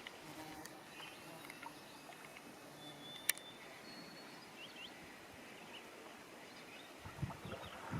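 Faint, calm lake ambience with a few brief high bird chirps. A single sharp click about three seconds in, and canoe paddle strokes in the water near the end.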